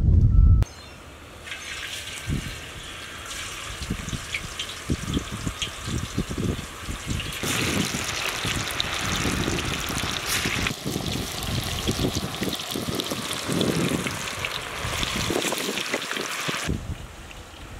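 Marinated chicken strips deep-frying in hot oil in a black iron wok: a steady sizzle full of small crackles and pops. It grows louder and busier about seven seconds in.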